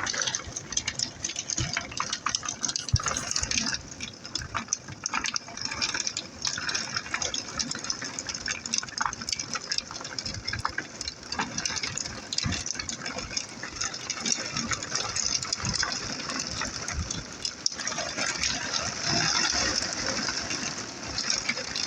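Heavy rain pouring down: a steady rush of water, dotted with many sharp drop splashes.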